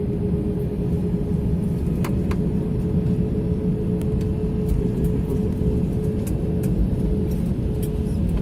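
Airbus A320 cabin noise: a steady low rumble with a steady hum over it, and a few faint clicks about two seconds in.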